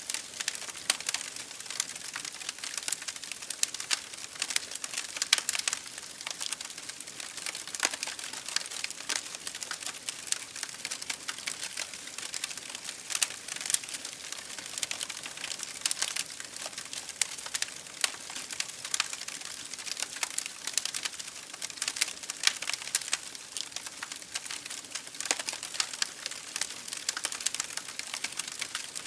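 Wood fire burning in an open fireplace, with dense, irregular crackles and pops over a steady hiss.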